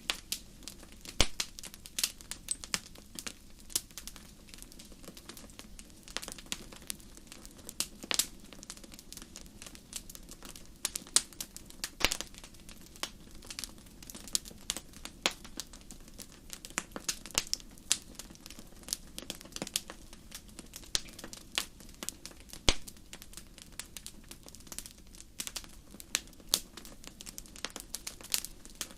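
Wood fire crackling in a fireplace: irregular sharp pops and snaps, a few much louder than the rest, over a steady low background.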